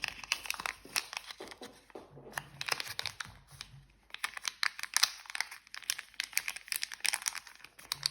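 Thin plastic packaging being handled and opened, crinkling in a dense run of sharp, irregular crackles.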